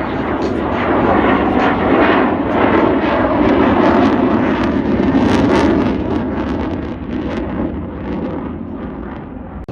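Airplane engine flying past, loud, swelling over the first couple of seconds and easing off after about six seconds.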